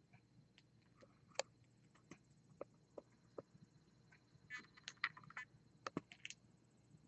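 Pet birds pecking and picking at food in a dish: scattered quiet clicks and taps, with a busier flurry of them about four and a half seconds in.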